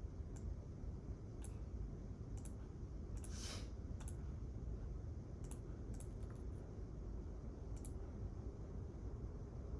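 Sparse, irregular keyboard keystrokes, about nine light clicks spread unevenly, with a brief soft rustle about three seconds in, over a steady low room hum.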